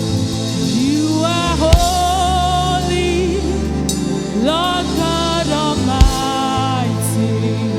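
Gospel worship music: a solo voice holds long notes with vibrato in two phrases, each sliding up into its note, over sustained chords and bass. A low thump comes about two seconds in and again near six seconds.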